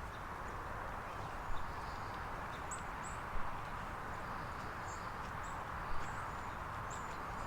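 Rural outdoor ambience: a steady background hiss with small birds chirping high and sparse, and a few soft knocks.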